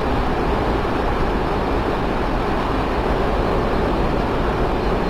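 Strong Santa Ana wind blowing steadily, with a low rumble of wind on the microphone.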